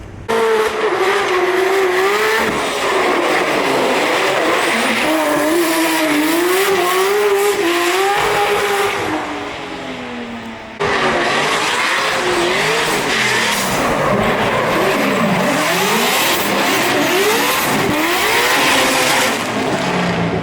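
Drift cars at full throttle: a high-revving engine note wavering up and down as the throttle is worked, over the hiss of tyres squealing and skidding. About halfway through the sound fades, then cuts abruptly to another car revving with quick sweeping rises and falls in pitch.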